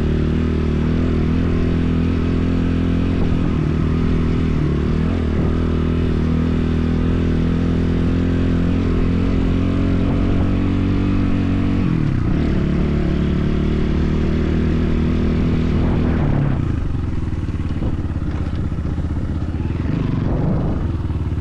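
BSE enduro motorcycle engine running under way at a steady speed. The pitch dips briefly about twelve seconds in, then drops to a lower, less even note about sixteen seconds in.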